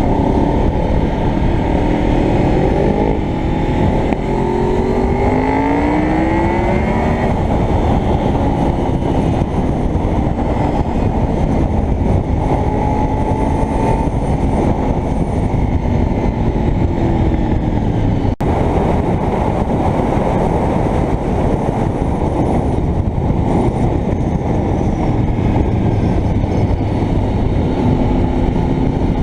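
Honda VFR's V4 engine accelerating, rising in pitch a few seconds in, then running at a steadier speed. Heavy wind rush on the helmet-mounted microphone runs under it.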